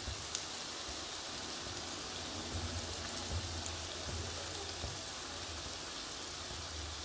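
Mixed vegetables frying in oil in a wok on a high flame, a steady soft sizzle.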